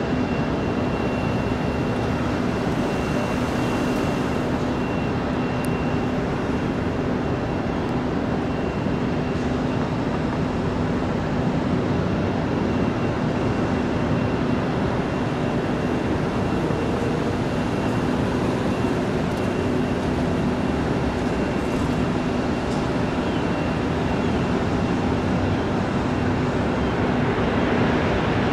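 Aircraft engines running steadily: a constant rumble with a low hum and a high whine held at one pitch, swelling slightly near the end.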